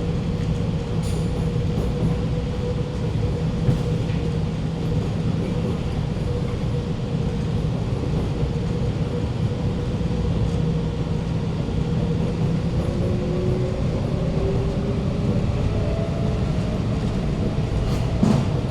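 Alstom Movia R151 metro train running between stations, heard from inside the carriage: a steady low rumble of wheels and running gear with a thin steady whine. In the last third a second tone glides upward, and a short knock comes near the end.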